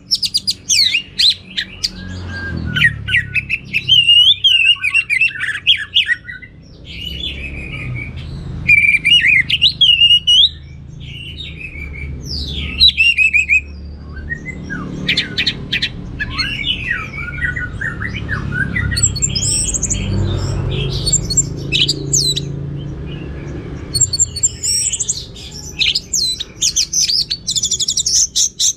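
Orange-headed thrush singing a long, varied song: quick whistled phrases that slide up and down, rapid clicking runs and high sharp notes, with hardly a pause. A steady low rumble runs underneath.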